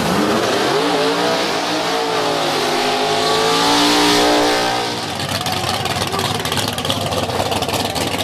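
Drag car engine revving and rolling close past, its pitch rising over the first few seconds and loudest as it passes. Then it falls away into a choppy, pulsing engine note.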